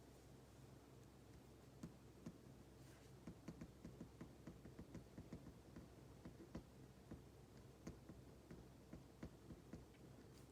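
Faint, irregular light clicks and taps of desk work, several a second, starting about two seconds in, over a steady low hum.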